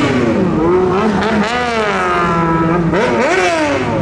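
A vehicle engine revved hard, its pitch rising and falling in several swells, held high for about a second in the middle and climbing sharply again near the end.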